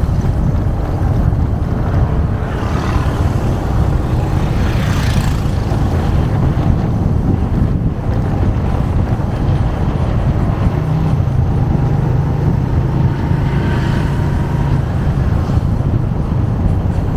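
Motorcycle engine running steadily under way, with road and wind noise on the microphone. A brief hissing rush swells and fades about three to five seconds in.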